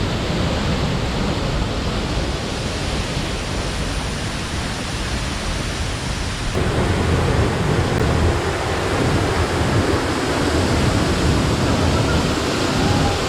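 Steady rush of a waterfall's falling water. About six and a half seconds in, the sound shifts abruptly and grows louder and deeper.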